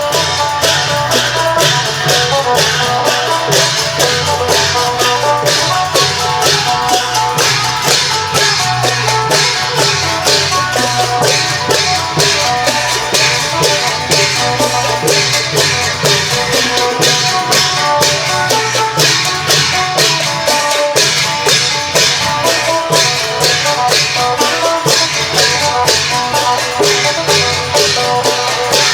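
Isan klong yao long-drum band playing with a phin lute: a plucked phin melody over held tones, driven by low drum beats and a fast, even stream of percussion strokes.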